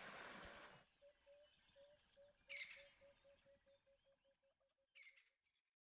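Faint bush ambience: a bird calls a long series of short notes at one pitch, coming faster toward the end, with a couple of brief high chirps. The sound fades out near the end.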